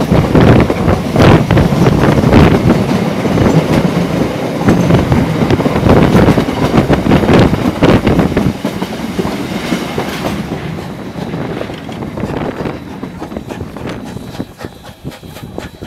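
Open carriage of a vintage train rolling along the track: a steady rumble with the wheels clicking over rail joints. It grows quieter after about ten seconds.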